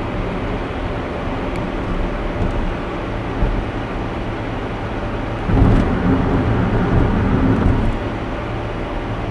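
A car driving at steady speed: continuous low tyre and engine rumble. A louder low rumble rises a little past the middle and lasts about two and a half seconds before settling back.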